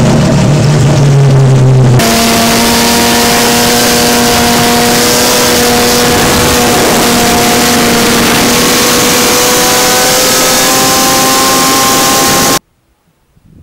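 Race car engine running loud and steady, then, after a cut about two seconds in, the car driving at speed: the engine's note creeps slowly upward under a loud rushing noise, until it cuts off abruptly near the end.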